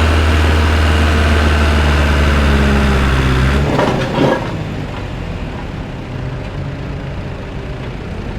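John Deere 2130 tractor engine running hard and steady while pulling the sled, then cut back abruptly about three and a half seconds in as the pull ends. A short pitched sound follows just after, over a quieter, steady background.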